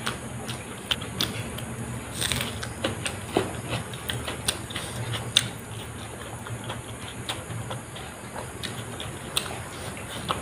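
A person eating rice and ghugni by hand: wet chewing and mouth smacks with many short, irregular clicks, over a low steady hum.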